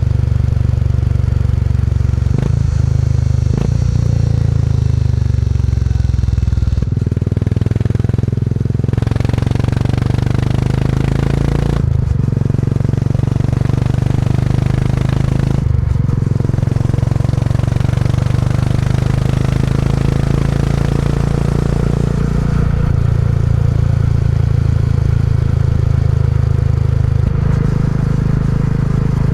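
Classic motorcycle engine running under way, its low note breaking briefly and changing pitch several times.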